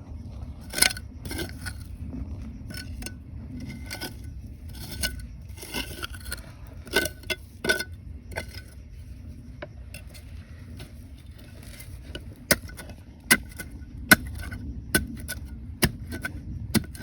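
Rocks and gravel knocking, clinking and scraping as they are dug and worked by hand, with sharp irregular knocks that come more often in the last few seconds, over a steady low rumble.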